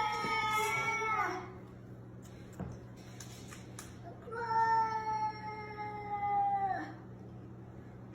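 Domestic cat yowling in two long, drawn-out calls: the first ends about a second in, the second runs from about four to seven seconds. These are the low, threatening yowls of a cat squaring up for a fight.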